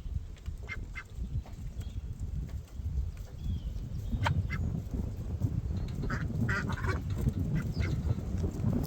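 Birds calling, a string of short calls scattered through the stretch and bunched together near the end, over a steady low rumble.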